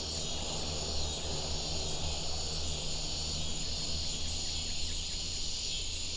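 Steady chorus of insects trilling outdoors, high-pitched and continuous, with a low hum underneath.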